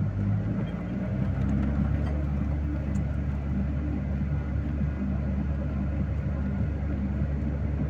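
Vehicle engine running steadily under way, a low drone with a deep rumble heard from inside the cab, the rumble firming up about half a second in.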